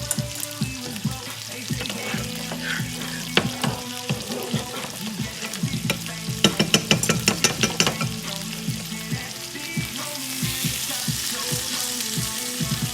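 Chicken frying and sizzling in a pan, with a run of quick clicks a little past the middle. Background music with low sliding bass notes plays underneath.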